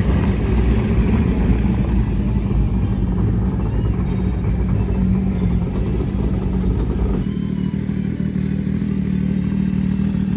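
Car engine running steadily at low revs, with a deep, even pitch; the sound changes abruptly about seven seconds in.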